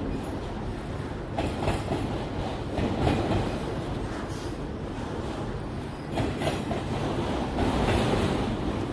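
A train passing close by: a steady rumble of wheels on rail, with sharp paired clacks as the wheels cross rail joints.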